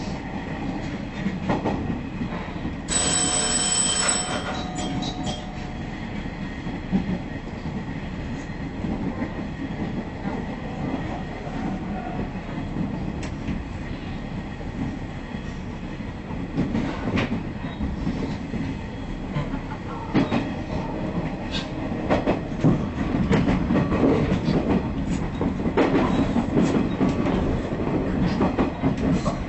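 KiHa 110 diesel railcar running along the track: a steady engine and wheel rumble with rail-joint clacks. A brief high tone sounds about three seconds in. The clacks come more often and louder in the last third as the wheels cross points.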